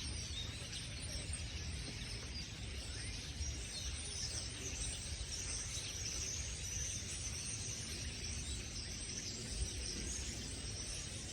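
A flock of many birds calling together in the trees, a continuous chatter of small, high chirps, with a low rumble of wind or handling noise on the microphone.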